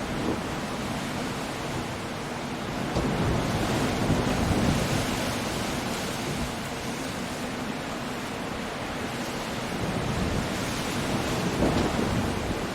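Storm surf and wind: a steady wash of breaking waves and gusting wind that swells louder a few seconds in and again near the end.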